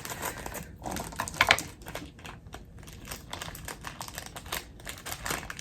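Small plastic seasoning packet for instant noodles crinkling and rustling as it is handled and opened: a string of quick crackles, with a louder one about one and a half seconds in.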